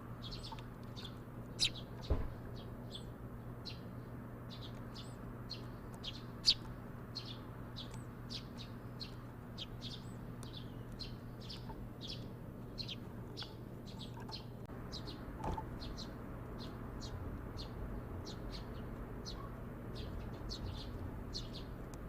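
Sparrows chirping continuously, a rapid run of short, high chirps about two or three a second, a few of them louder, over a steady low hum.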